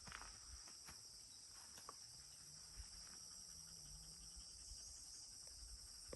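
Faint, steady high-pitched insect chorus, like crickets trilling, with a few soft clicks and a faint low hum about midway.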